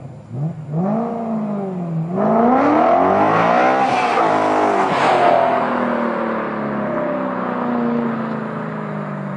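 Car engine and exhaust revving: a short blip, then a longer climb to a loud peak, then the revs fall away slowly.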